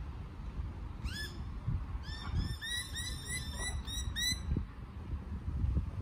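A bird calling: one rising call about a second in, then a quick even run of about ten short, upward-hooked notes, about four a second, over a steady low rumble.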